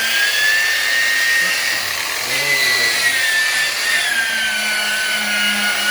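Power polisher running on car paintwork: a steady high-pitched whine that rises slightly and then sags toward the end as the load on the pad changes.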